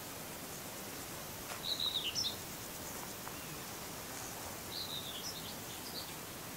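A small bird calling in two short bursts of chirps, about one and a half seconds in and again near five seconds, over a steady background hiss.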